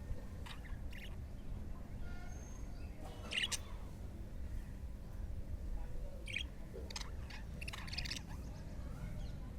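Budgerigars giving short, high chirps every second or two, scattered and irregular, over low steady background noise.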